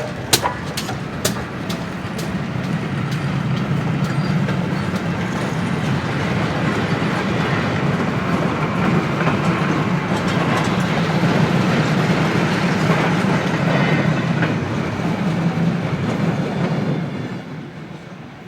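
A train passing on railway track. Wheels click sharply over rail joints at first, then a steady rumble of wheels and running gear builds, peaks about two-thirds of the way through and dies away near the end.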